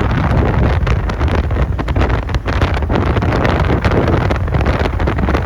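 Heavy wind buffeting the microphone of a moving motorbike, a loud, steady rush with constant rapid flutter.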